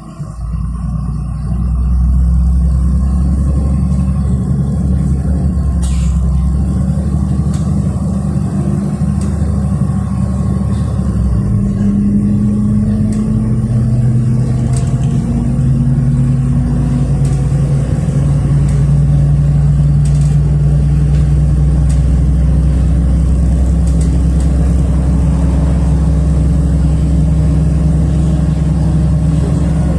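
City bus engine and drivetrain heard from inside the passenger cabin as the bus pulls away from a stop. It accelerates, its pitch rising and stepping up through the gears, then settles into a steady drone.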